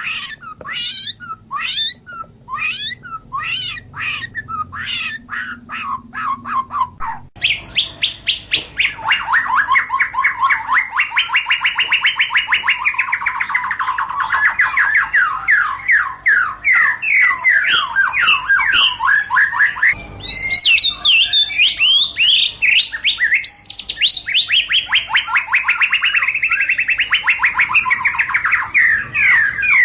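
White-rumped shama singing: varied, spaced whistled phrases at first, then from about seven seconds in a fast, continuous run of rapidly repeated notes, broken once briefly about two-thirds of the way through.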